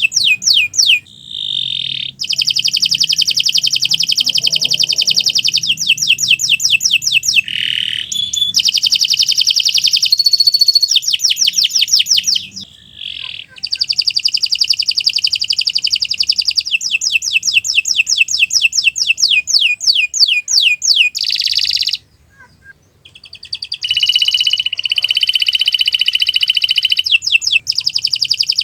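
Canary singing long phrases of fast, high-pitched trills and rolls, with brief breaks about a second in, around halfway, and a slightly longer pause about three-quarters of the way through.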